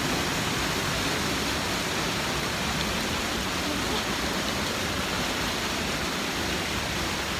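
Steady rushing of falling water from a mountain stream's cascades, an even hiss with no change.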